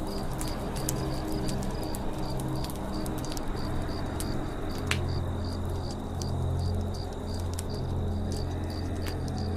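Campfire crackling with scattered sharp pops, the loudest about five seconds in, while a cricket chirps steadily about three times a second. A low steady drone sits underneath.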